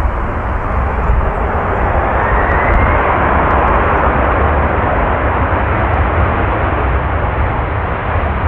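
Jet engines of a three-engined airliner running loud, a dense rush of noise that swells to a peak about four seconds in, with a faint whine rising in pitch shortly before.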